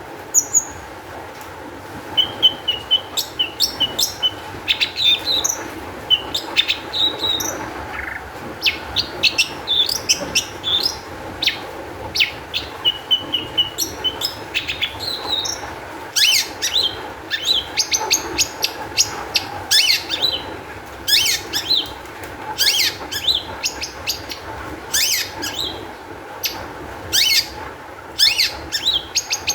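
Long-tailed shrike (cendet) singing an agitated, rapid song: a dense run of sharp, quick down-sweeping notes mixed with short chattering trills.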